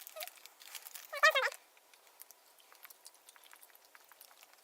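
Soft, scattered clicks of someone chewing a chewy fruit snack, with a brief voice sound about a second in.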